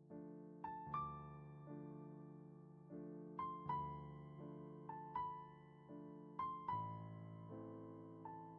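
Soft, slow solo piano music: held chords in the low and middle range under a high melody of single struck notes, often in quick pairs, that ring and die away.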